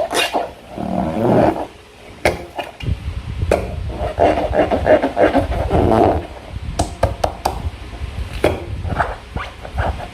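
Slime being squeezed and worked by hand, with wet squelching and crackles and sharp clicks scattered throughout. A low rumble sets in about three seconds in.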